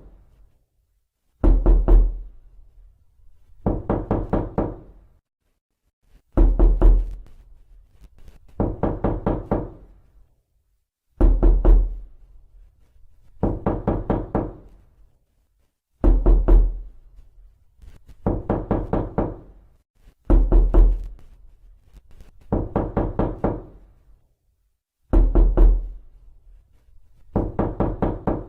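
Knocking on a door: quick runs of about six raps, each run about a second long and starting with a heavy thud, repeating steadily about every two seconds.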